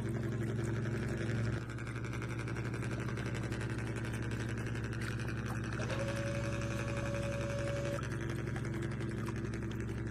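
Remote-control truck running, a steady motor hum that drops slightly about a second and a half in, with a steady higher tone joining for about two seconds past the middle.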